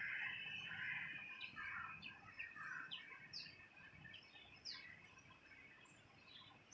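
Small birds chirping: a run of short, quick falling chirps over a steady, faint insect drone that fades away.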